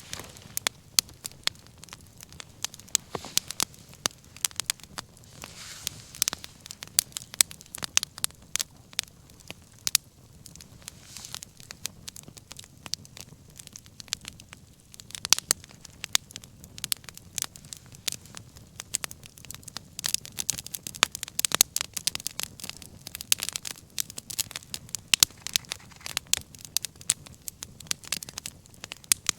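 Wood fire crackling, with many sharp, irregular pops over a soft steady hiss of the flames. The popping is busiest near the end.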